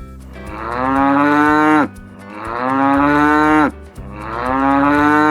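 Cow mooing three times: each moo is a long call of about a second and a half that drops in pitch at the end.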